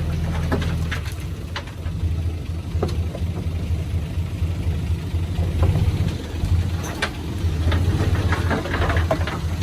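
Diesel engine of a heavy construction machine running steadily at a low rumble, with scattered short clicks and clanks over it.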